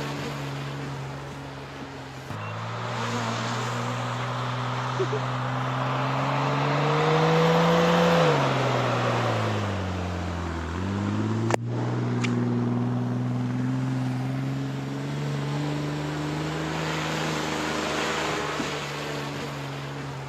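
A vehicle engine running, its pitch climbing steadily for several seconds as it gains revs, then dropping back over a couple of seconds before holding steady. A sharp click comes a little past the middle.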